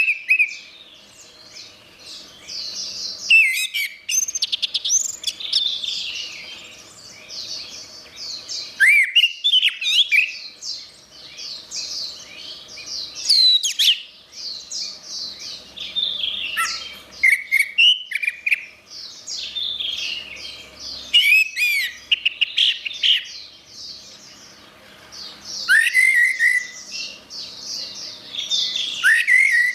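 Orange-headed thrush singing: long runs of fast, varied whistled and warbled notes, phrases often opening with a loud swooping note, broken by short pauses every few seconds.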